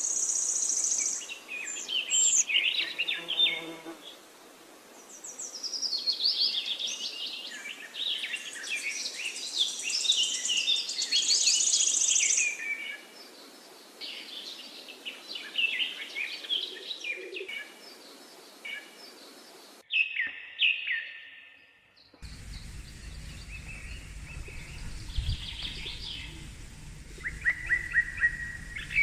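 Small birds chirping and trilling in quick, high calls. They break off briefly about two-thirds of the way through, and afterwards a low steady rumble runs under the chirping.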